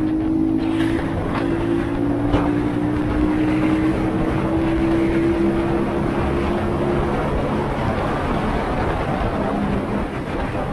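Honda Shadow 125's small V-twin engine running at a steady cruise, its note slowly rising over the first several seconds, under steady wind and road noise. A few brief clicks come in the first couple of seconds.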